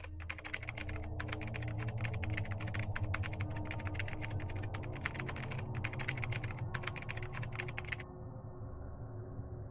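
Rapid computer-keyboard typing clicks, used as a sound effect for on-screen text, with a few short pauses. The typing stops about eight seconds in, leaving a steady low drone that runs underneath throughout.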